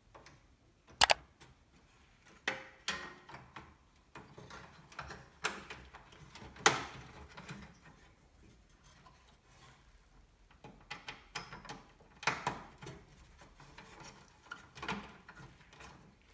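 Irregular clicks, taps and knocks of computer parts being handled and fitted by hand, with two louder sharp knocks, one about a second in and one near the middle.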